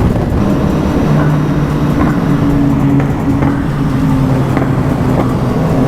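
BMW S1000 RR inline-four engine running at a steady, even speed, with a low rumble beneath it.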